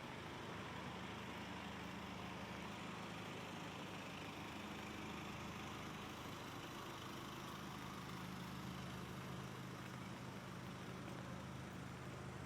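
A vehicle engine idling with a steady low hum, over the even hiss of rain.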